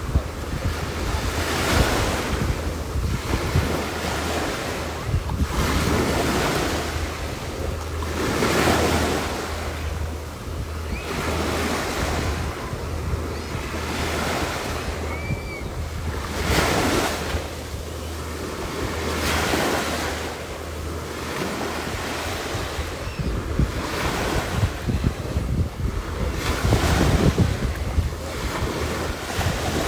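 Waves washing in, in repeated swells of noise every couple of seconds, with wind rumbling on the microphone.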